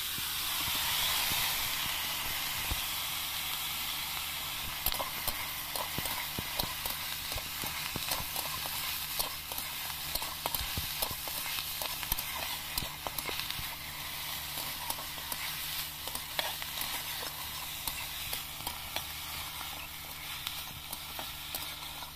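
Red ants sizzling as they fry in a steel kadhai, with a metal spoon scraping and clinking against the pan as they are stirred. The sizzle is loudest in the first couple of seconds.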